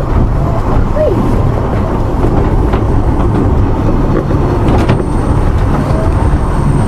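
Narrow-gauge railway carriage in motion, heard from on board: a steady rumble of wheels on the track with a few faint clicks.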